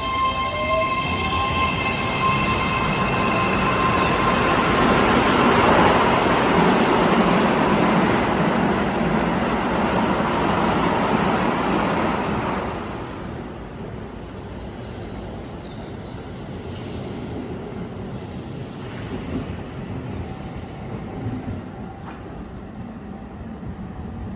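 Keihan 13000-series electric train passing close. Its motors whine at the start, one tone rising in pitch, under a loud wheel-and-rail rumble that drops off suddenly about twelve seconds in, leaving a quieter rumble.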